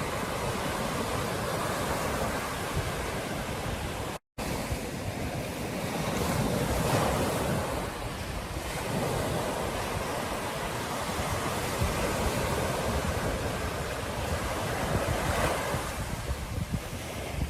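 Ocean surf washing onto a beach, swelling and easing as waves break, with wind buffeting the microphone. The sound cuts out completely for a moment about four seconds in.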